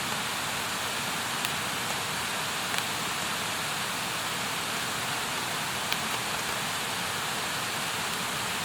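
Wood campfire burning: a steady hiss with a few sharp pops of crackling wood.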